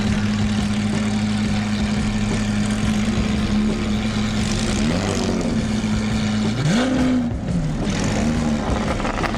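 Car engine held at a steady rev for about five seconds, then blipped: a quick rise and fall, a sharp rev up around seven seconds in, and several short rev blips after it.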